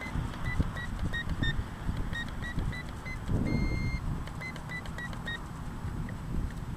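Radio-control transmitter beeping as its trim is stepped: a run of short high beeps, about three a second, with one longer, higher beep partway through. Low wind rumble on the microphone underneath.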